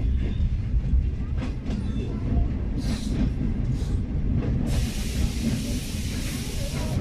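A passenger train running at speed, heard from inside the coach: a steady low rumble with an occasional click of wheels over the rails. About two-thirds of the way in, a loud steady hiss joins it and stops suddenly at the end.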